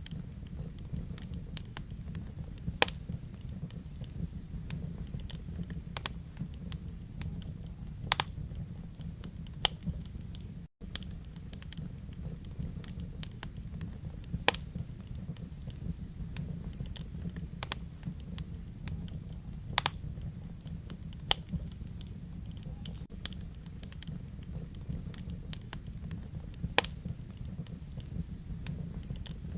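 Wood fire in a fireplace crackling, with sharp irregular pops over a steady low rumble of the flames. A few pops stand out louder, and the sound drops out for an instant about eleven seconds in.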